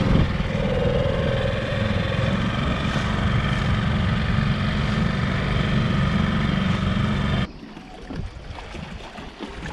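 Dinghy outboard motor running steadily under way, a constant engine hum. It cuts off abruptly about seven and a half seconds in, leaving quieter wind and water noise.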